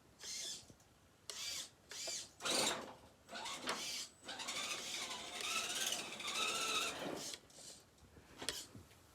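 Redcat Gen7 Sport 1/10 RC rock crawler's electric motor and geartrain whining in a string of short throttle bursts, then a longer run about halfway in whose pitch rises and falls with the throttle.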